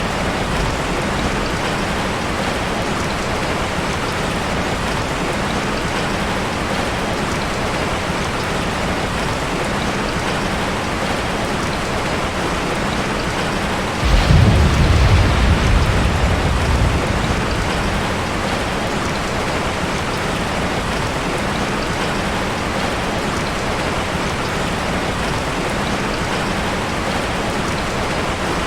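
Steady rain falling. About halfway through, a low rumble of thunder swells suddenly and dies away over about three seconds.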